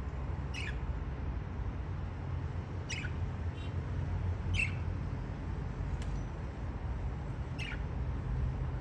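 Budgerigar giving short, sharp chirps, four in all, each dropping slightly in pitch, a few seconds apart, over a steady low hum.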